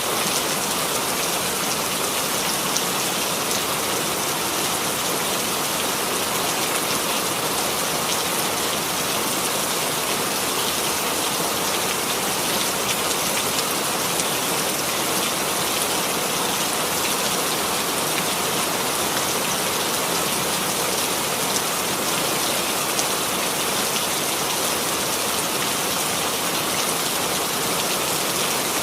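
Steady rain falling and pattering on a surface, an even hiss of many fine drops.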